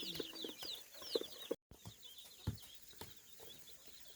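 A flock of baby poultry chicks peeping in quick, high, falling chirps, dense in the first second and a half and fainter after a sudden break in the sound. A soft knock about two and a half seconds in.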